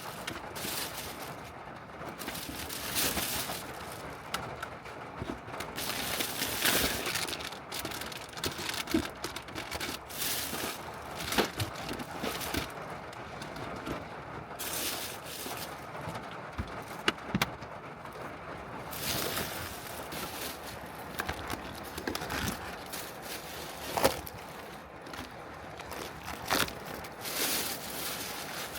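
Heavy rain and gusting wind on a Honda N-VAN kei van: a steady hiss that swells every few seconds, with a few sharp taps of drops.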